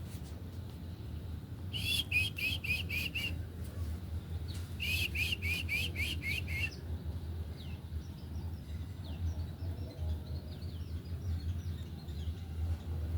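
White-eyes in an aviary calling: two quick runs of six or seven sharp notes a few seconds apart, then scattered faint high chirps. A steady low hum runs underneath.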